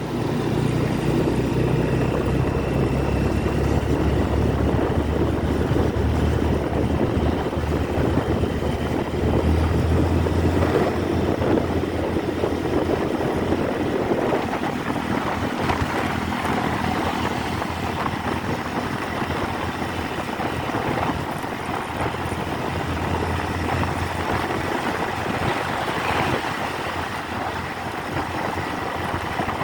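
Motorcycle engine running while riding, with wind and road noise; the engine note shifts in pitch several times.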